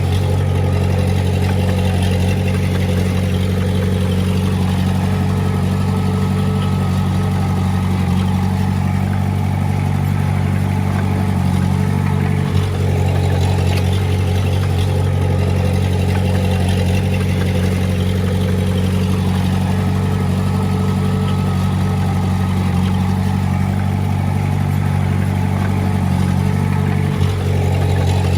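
Diesel engine of heavy earthmoving machinery running steadily at a constant speed, with two brief knocks, one about halfway through and one near the end.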